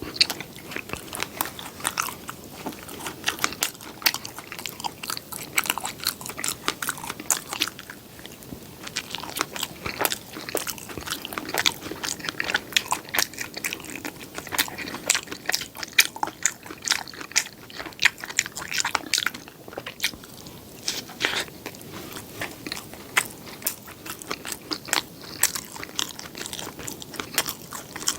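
Close-miked eating: a person biting and chewing crisp, crumbly food, with dense irregular crunching and crackling clicks.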